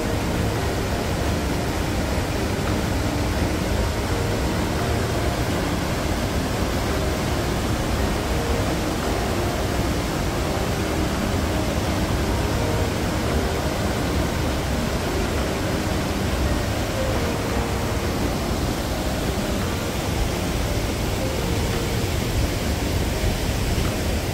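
Steady rushing of a mountain river running through a rocky gorge, an even wash of water noise with no breaks.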